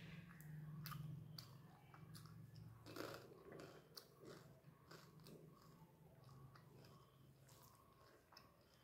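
Close-miked chewing of fried fish, with small biting crunches and wet mouth clicks; they are busiest about three seconds in and grow quieter toward the end.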